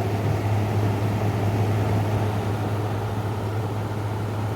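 1996 Whirlpool window air conditioner running: its non-reciprocating compressor hums steadily under the even rush of the fan. The compressor sounds healthy, with hardly any chatter.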